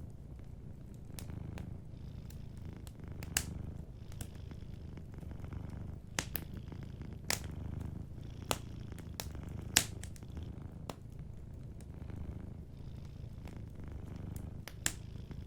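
Domestic cat purring steadily, a low rumble that swells and eases in slow cycles. Sharp pops from a crackling wood fire break in about half a dozen times, the loudest roughly two-thirds of the way through.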